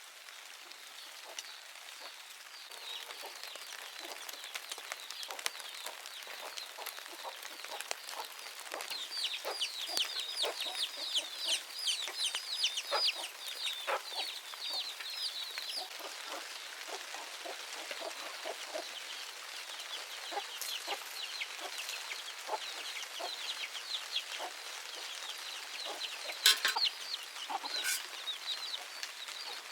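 Chickens calling: many quick, high, falling chirps, thickest about a third of the way in, with two louder calls near the end.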